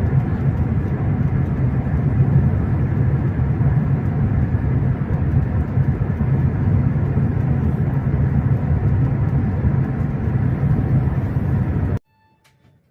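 Steady rumble of a high-speed train running at about 350 km/h, heard from inside the carriage; it cuts off suddenly about twelve seconds in.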